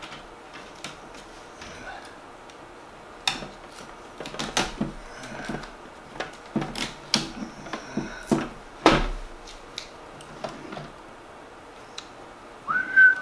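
Scattered clicks, taps and knocks as the parts of a new coffee maker are handled and taken off, with the loudest knock about nine seconds in.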